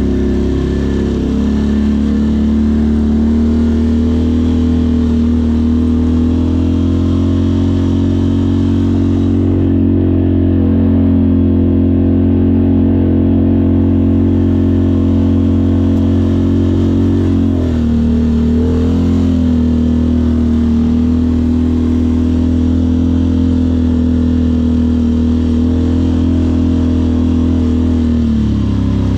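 Off-road vehicle's engine running steadily under way at fairly constant revs, with brief dips in pitch about a second in, about two-thirds of the way through and near the end as the throttle eases.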